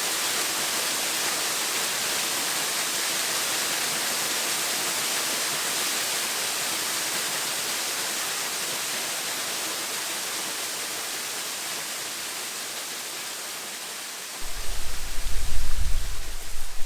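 Steady rushing of a waterfall, slowly growing fainter over the second half. Near the end, a sudden, louder low rumble of microphone noise cuts in.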